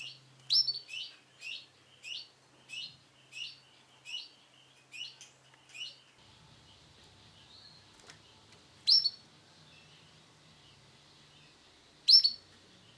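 Male canary chirping: a quick run of about a dozen short high chirps over the first six seconds, then two louder single chirps a few seconds apart.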